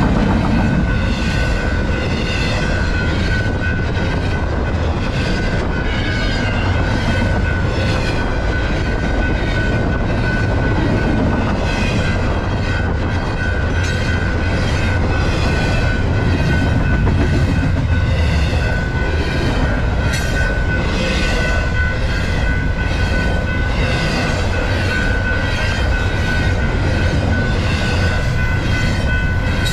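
Long Canadian Pacific freight train rolling past at speed: a steady, loud rumble of freight cars with rhythmic wheel clacking, about one and a half to two clacks a second, over a steady high tone.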